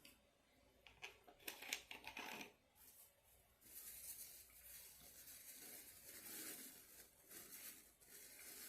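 Quiet eating sounds: a cluster of short clicks and scrapes about a second in, then a soft, steady rustling noise from about four seconds on.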